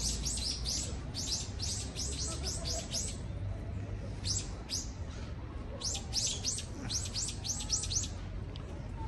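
A small bird chirping in quick runs of high, falling chirps, about four or five a second, with a break about three seconds in before a second run starts, over a steady low rumble.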